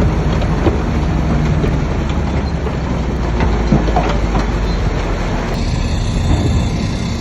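Crawler bulldozer's diesel engine running under load, with the irregular clanking and knocking of its steel tracks. The sound changes about five and a half seconds in, as the hiss drops away and the engine note steadies.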